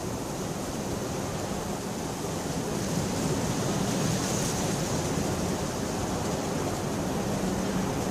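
Steady rain falling, an even hiss of drops that grows a little louder about three seconds in.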